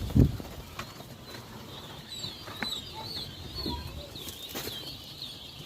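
A large flock of five-week-old game-bird poults cheeping, a run of many short, high chirps from about two seconds in. A low thump sounds just after the start.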